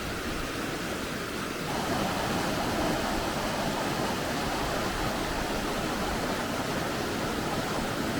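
Steady rush of fast-flowing, cold mountain river water (the Sheep River), growing slightly louder about two seconds in.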